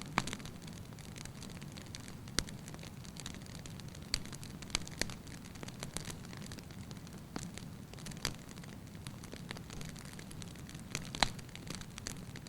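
Firewood burning in a fireplace with a light crackle: irregular sharp pops and snaps over a steady low rumble of the flames, the loudest pop a little after eleven seconds in.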